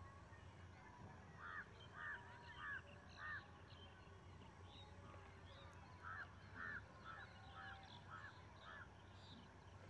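A bird calling faintly in two runs of short repeated calls, about four and then about six, over a steady low hum.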